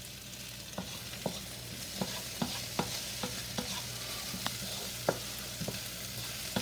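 Onions sizzling in a frying pan as they caramelize with sugar and salt. From about a second in, a utensil stirring them clicks against the pan roughly twice a second.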